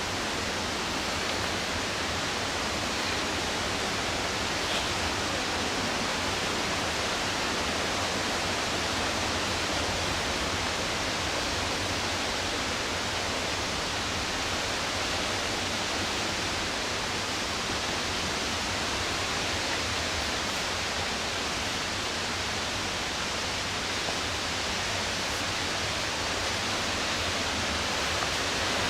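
Steady roar of rushing whitewater on the McKenzie River, at an even level throughout.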